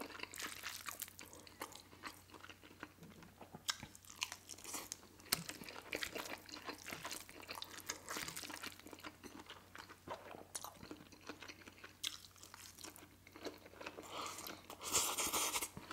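Close-up chewing and mouth smacking of pad thai noodles, a run of small wet clicks and crackles. About a second before the end comes a louder slurp as a forkful of noodles is sucked in.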